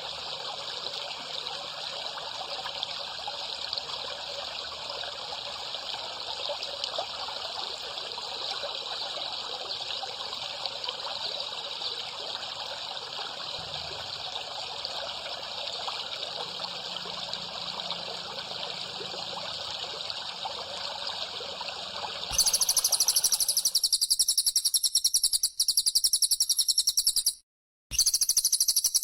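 Recorded water trickling steadily, used as a pause in a songbird-training track. About 22 seconds in, it cuts abruptly to a much louder, very high-pitched, rapidly pulsing buzzing call, which breaks off briefly near the end.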